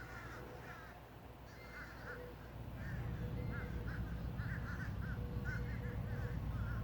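Crows cawing, many short calls repeating and overlapping. A low rumble comes up under them about three seconds in.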